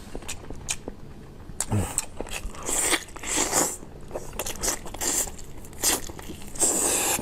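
Close-miked eating: a person biting and chewing food, with sharp mouth clicks and several longer bursts of chewing noise, the last one near the end.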